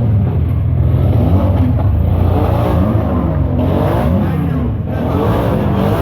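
A car engine running with a steady low hum, with faint voices mixed in.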